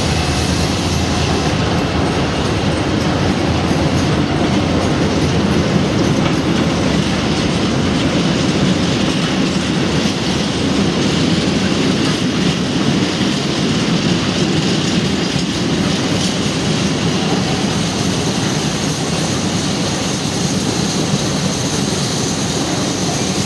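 A freight train's wagons rolling steadily past: a continuous rumble with clattering wheels on the rail joints, easing slightly near the end.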